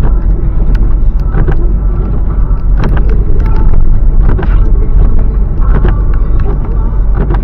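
Car driving on a snowy road, heard from inside the cabin: a steady, loud low rumble of engine and road noise, broken by irregular knocks and clunks from bumps.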